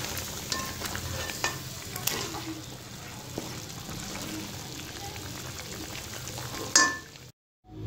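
Chicken pieces sizzling in a little sauce in a steel pan while a spatula stirs and turns them, with a few light knocks of the spatula against the pan. A louder scrape comes near the end, then the sound cuts off abruptly.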